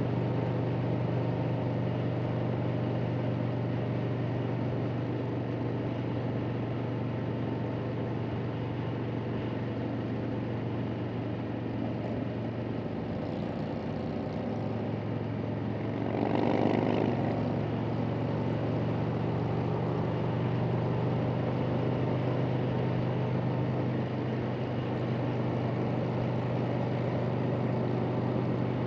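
Harley-Davidson Sportster's V-twin engine running at a steady highway cruise, heard under constant wind rush. About halfway through there is a brief louder swell lasting a second or so.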